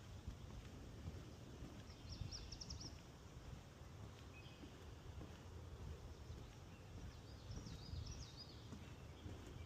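Faint songbird calls in swamp woodland: a quick high trill about two seconds in, a few short notes, then a run of stepped, falling notes near the end. Under them is a low, steady rumble.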